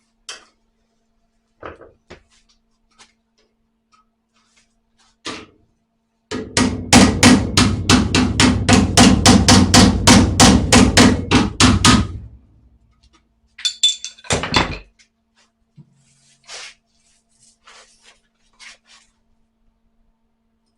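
A fast, even run of hammer blows on sheet-steel car body panel, about four a second for some six seconds, with scattered single knocks before and after.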